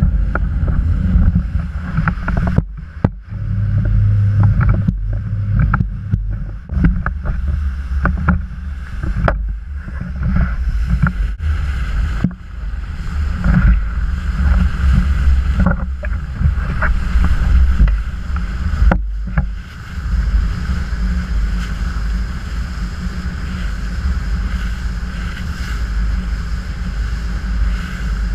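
A motorboat under way on open water, with a steady low rumble and heavy wind buffeting the microphone. Irregular knocks and brief dips come through in the first two-thirds, then the sound settles to a steadier run.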